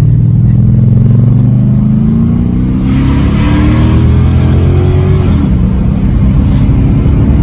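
1989 Audi V8 with a stainless-steel exhaust under full acceleration from a standstill, heard from inside the cabin. The engine note climbs steadily, drops once about five seconds in as it shifts up, then climbs again.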